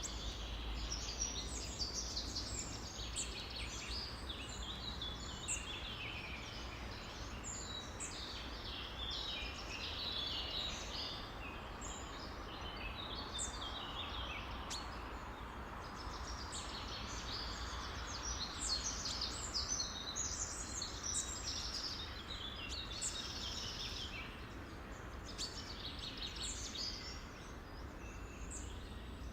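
A chorus of many songbirds chirping and calling at once, a dense, continuous tangle of short high calls, over a steady low hum.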